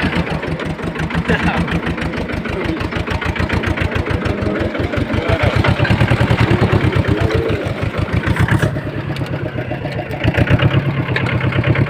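Tractor diesel engine running with a steady, even thump of firing pulses, getting louder for a few seconds in the middle and again near the end as it works over rough ground.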